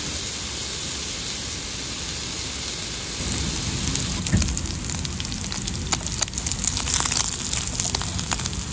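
Makchang (pork intestine) sizzling in a frying pan on a portable gas stove: a steady hiss. About three seconds in, it grows louder, with quick crackling pops as the fat spits and the pieces brown and char.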